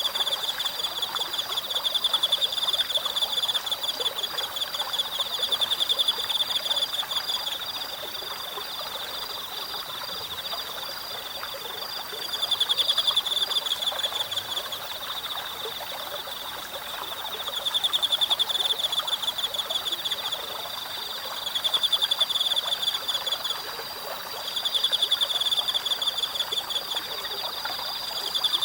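Insects calling in repeated bouts of rapid, pulsed chirps a few seconds long, each starting loud and fading, over a steady high-pitched insect trill and the constant murmur of a small forest stream.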